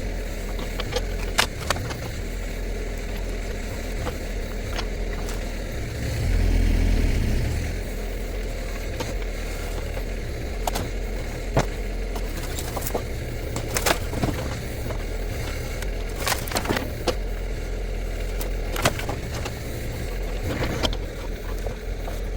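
Shantui STE35SR mini excavator's diesel engine running steadily, swelling under load for a second or two about six seconds in, with scattered sharp knocks and cracks from the demolition work.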